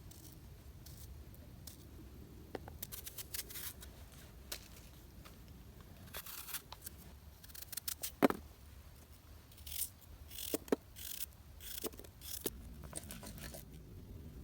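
Irregular short clicks, snips and brief rustles, as of small objects being handled, over a low steady background rumble; the sharpest click comes about eight seconds in.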